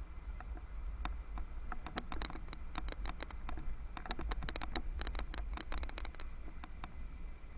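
Irregular clicking and rattling from a bicycle being ridden, densest in the middle, over a steady low rumble.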